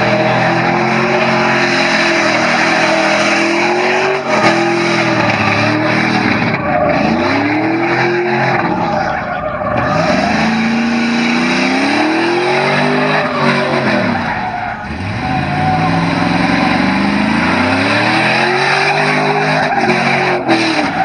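Vehicle engine revving up and dropping back several times, over a steady hiss of spinning, squealing tires: a burnout or donuts.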